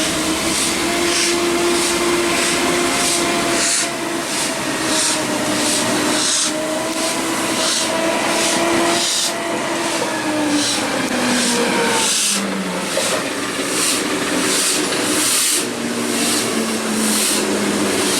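Steam locomotive working, its exhaust beating in a steady hissing rhythm about twice a second. A steady whine runs underneath and slides down in pitch about two-thirds of the way through.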